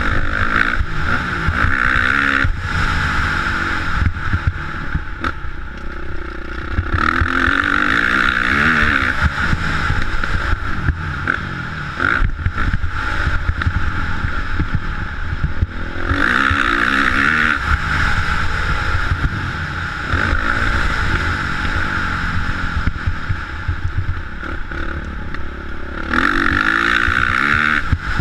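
Motocross bike engine revving up and down as it is ridden, with stronger bursts of throttle about every nine to ten seconds over a steady low rumble.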